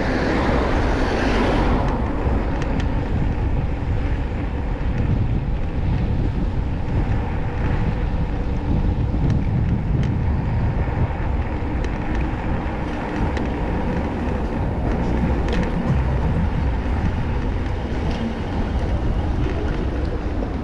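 Street traffic and wind rumbling on the microphone while cycling along city roads, with a louder rush of passing traffic in the first two seconds.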